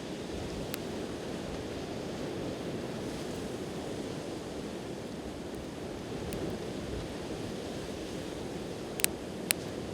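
Steady wash of sea surf with a wood campfire crackling, giving a few faint pops and two sharp, loud pops near the end.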